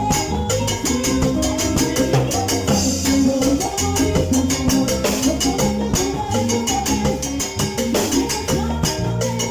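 Salsa band playing an instrumental passage with a steady percussion beat and a moving bass line.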